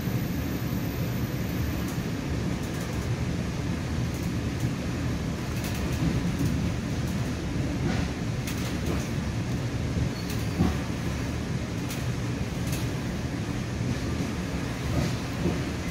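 Commuter train coach running on the rails, heard from inside the passenger car: a steady low rumble with a few light clicks, and one sharper knock about ten and a half seconds in.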